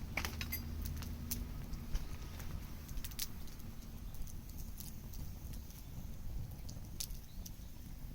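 Bonfire crackling: irregular sharp pops and snaps over a low steady rumble.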